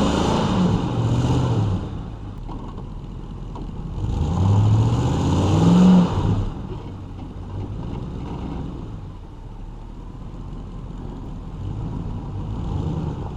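Pickup truck engines revving under load in two surges, one at the start and one from about four to six seconds in, then running lower and steadier. Two trucks chained in tandem are straining to tow a heavy travel trailer.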